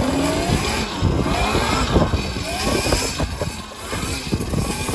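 60-volt electric dirt bike's motor whining, its pitch sliding up and down with the throttle several times, over rumbling wind on the microphone.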